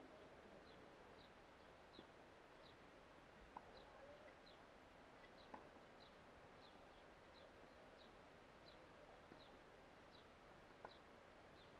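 Near silence with a bird repeating a short, high, falling chirp about twice a second, and a few faint sharp knocks.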